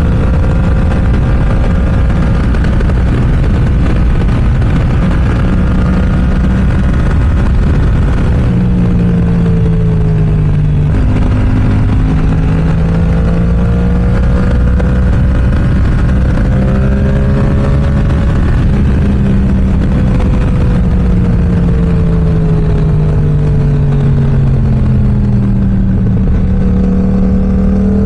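Yamaha R7's 689 cc parallel-twin engine running through an M4 aftermarket exhaust under riding load. Its pitch rises and falls repeatedly as the throttle changes, with an abrupt step in pitch about eleven seconds in.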